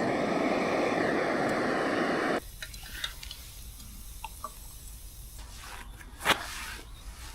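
Water pouring into a kettle, a steady rush for a little over two seconds that stops suddenly. Then a low background rumble with a few small clicks and one sharp snap about six seconds in.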